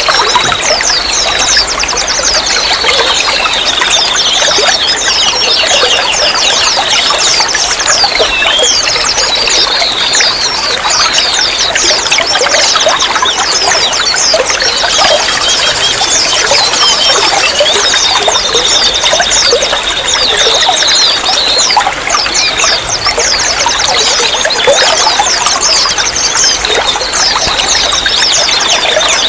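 Running water trickling and splashing steadily, with many small bubbling drips. A wavering high-pitched tone comes and goes several times over it.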